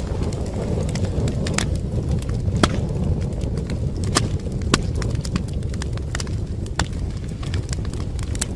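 Wood fire burning in a fireplace: a steady low rumble with frequent sharp crackles and pops, a few of them louder than the rest.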